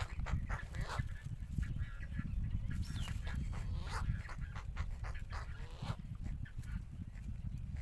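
Short animal calls, a scattered series of brief cries, one sliding down in pitch about three seconds in, over a steady low rumble.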